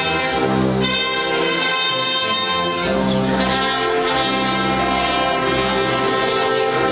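Brass band music, with trumpets and trombones holding long chords; the chord shifts and deeper notes come in about three seconds in.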